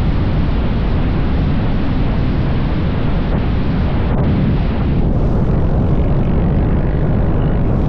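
Motorcycle riding at speed: wind rushing over the microphone and the bike's engine make a loud, steady rumble.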